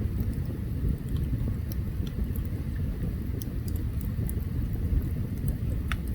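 Open campfire burning: a steady low rumble with scattered sharp crackles and pops from the burning wood, one louder pop near the end.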